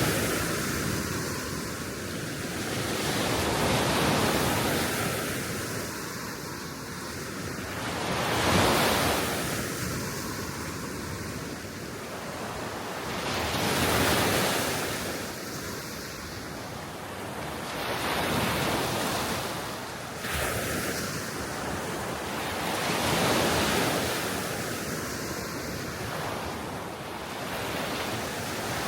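Small waves washing onto the Baltic Sea shore, the surf swelling and fading every four to five seconds, with wind blowing across the microphone.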